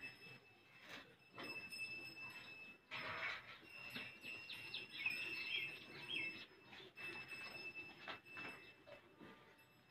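Faint chirping of small birds, a few quick chirps clustered about halfway through, over a steady thin high-pitched tone and scattered small knocks.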